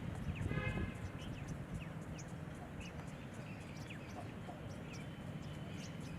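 Small birds giving short, high chirps again and again over a steady low background rumble. About half a second in, a brief pitched call of about half a second stands out as the loudest sound.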